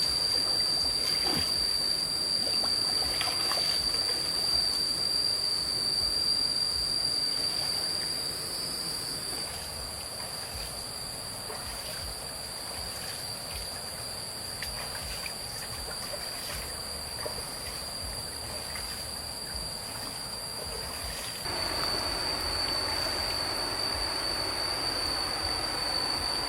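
Stream water trickling, under a steady, high-pitched drone of insects. The water sound drops quieter about a third of the way in and becomes louder again near the end.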